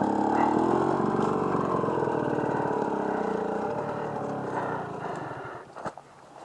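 Off-road motorcycle engine running with a slightly wavering pitch, fading away steadily over the last couple of seconds.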